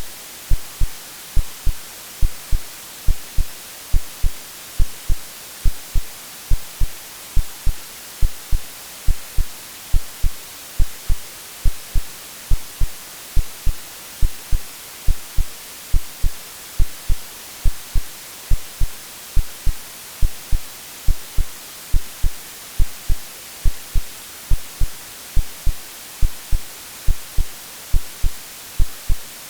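Synthetic heartbeat, a steady lub-dub of low, soft thumps at an even resting pace, over a constant hiss of white noise.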